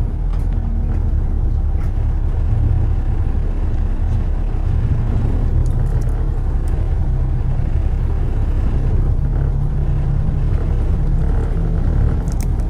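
Steady low rumble of road traffic and vehicle engines, with a few faint clicks.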